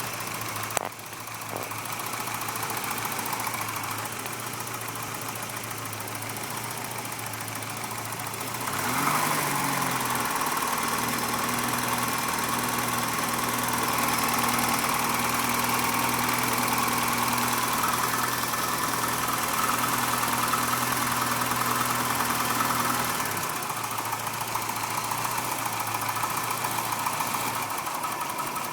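LeSharo motorhome engine idling with a knock that the owner suspects is rod knock. A cylinder cut-out check, unplugging one fuel injector at a time, makes no change to the knock that the owner can hear. About nine seconds in the sound gets a little louder, with a steady higher hum, and it drops back near 23 seconds.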